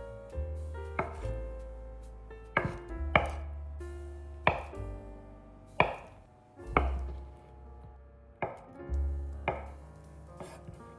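Knife striking a cutting board in single cuts about once a second, over soft piano background music.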